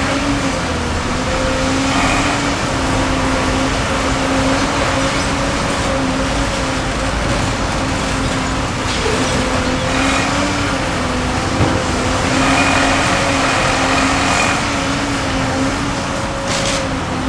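Sennebogen 870E high-reach demolition excavator running steadily, its engine and hydraulics giving a constant droning hum. A higher whine comes and goes several times as the hydraulics work, and a single short knock comes about twelve seconds in.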